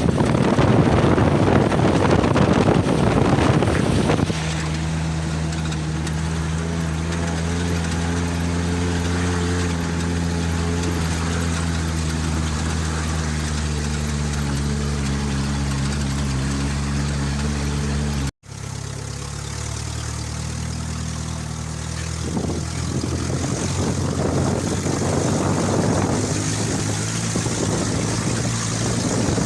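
Wind buffeting the microphone for the first few seconds, then a vehicle engine running at a steady speed. It cuts out for an instant about eighteen seconds in, then the engine carries on with more road and wind noise.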